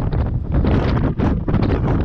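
Strong wind buffeting the microphone: a loud, gusty rumble and roar that surges and dips rapidly.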